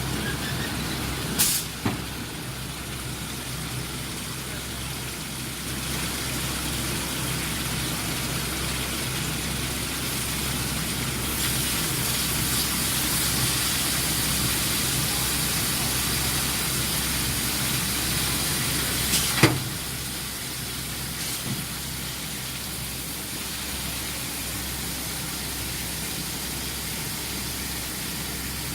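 Induction quenching and tempering line for steel sucker rods running steadily, with a low hum and hiss. There are two sharp knocks, one near the start and one about two-thirds through, and the hiss grows louder for several seconds in the middle.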